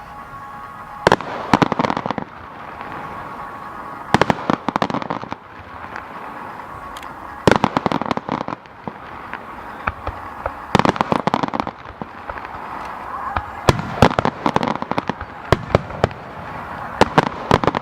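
Aerial fireworks display: a loud shell burst about every three seconds, each followed by a cluster of crackling pops.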